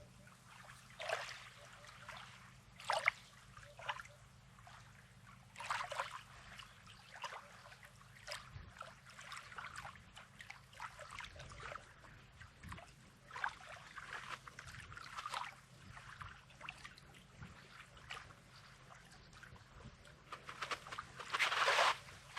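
Small sea waves lapping and washing onto a rocky sandy shore in irregular splashes every few seconds, the biggest wash near the end.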